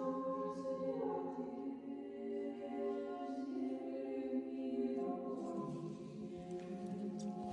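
A choir of nuns singing Orthodox church chant without instruments. They hold long notes in chords that change slowly.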